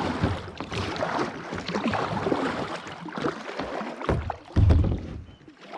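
Kayak moving through shallow rocky water: a continuous splashing, rushing wash against the hull and paddle, then a couple of heavy low thumps about four seconds in.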